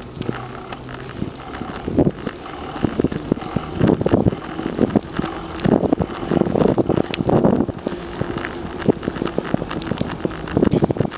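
Bicycle riding along a trail: irregular rattles and knocks over the steady rolling noise, with wind on the microphone.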